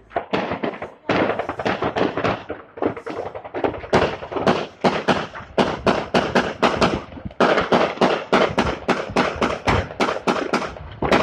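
Anti-aircraft gunfire: many rapid shots in dense, overlapping bursts, settling in the second half into a steadier run of about four shots a second.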